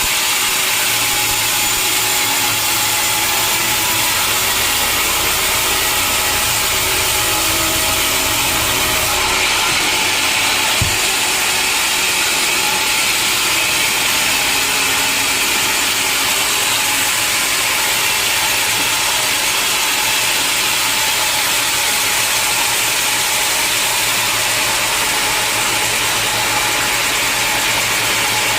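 A sawmill saw cutting steadily through a log: a loud, even hiss of sawing. A low motor hum runs underneath and fades out about nine seconds in, and there is one sharp knock about eleven seconds in.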